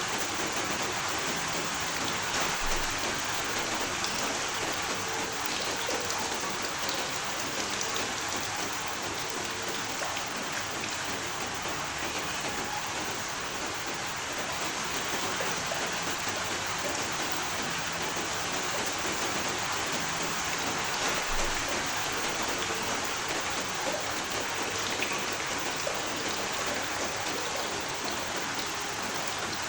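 Steady rain: an even hiss of falling rain with scattered individual drop taps.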